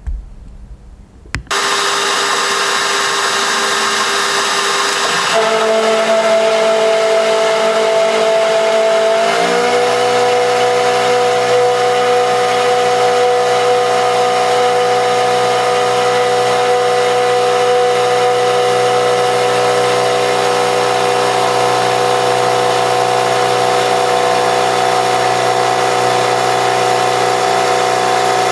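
An electric machine tool's motor starting abruptly and running steadily with a whine of several steady tones, which shift once and then step slightly higher in pitch partway through.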